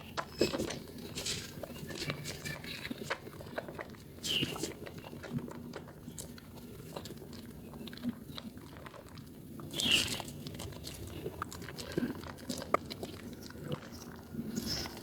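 A soaked bar of Proguard yellow soap squeezed and lathered by hand: wet squishing with many small crackles. There is a louder squelch about four seconds in and another about ten seconds in.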